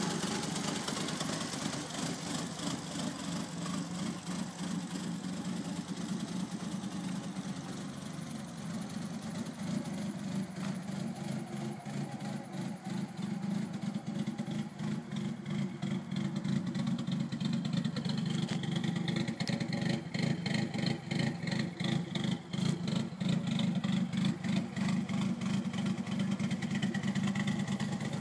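Nissan 240SX's swapped turbocharged SR20DET engine idling steadily with an even pulsing drone, getting louder about halfway through.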